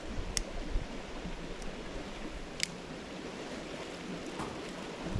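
A shallow beck running over rocks: a steady rush of flowing water, with two sharp little clicks, one near the start and one about halfway through.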